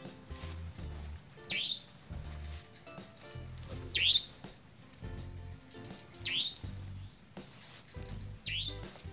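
A bird repeating a short, falling whistled call about every two and a half seconds, over a steady high drone of crickets, with soft background music underneath.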